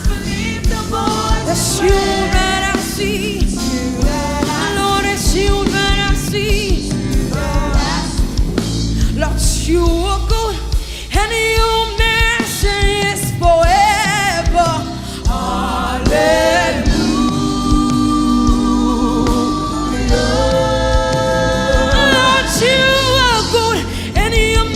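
Gospel praise-and-worship music: voices singing long, wavering held notes over a band with steady bass and drums.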